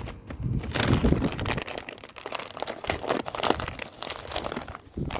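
Irregular crinkling and rustling, like packaging or a bag being handled, with many sharp little crackles.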